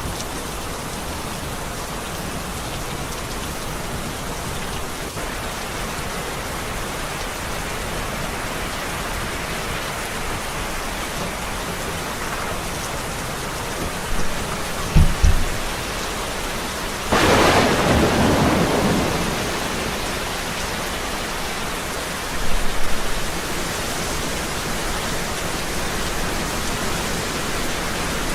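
Steady heavy rain with thunder: low rumbles about halfway through, then a sharp crack that rolls away over a couple of seconds, and another short low rumble a few seconds later.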